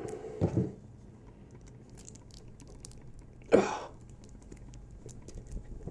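Small scattered ticks and rustles of a flexible 3D-printed nylon part being twisted and stretched by hand, with one short louder sound about three and a half seconds in.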